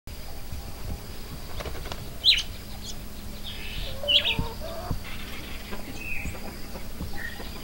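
Farmyard birds chirping in short, sharp calls over a faint steady background, the loudest chirps about two and four seconds in, with a few light knocks.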